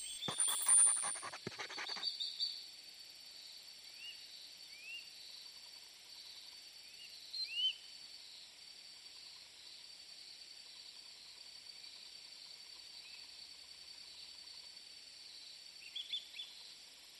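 A jingling chime rings and dies away within the first two seconds. After it come faint bird chirps: short rising calls a few seconds apart over a steady background hiss, with a small cluster of calls near the end.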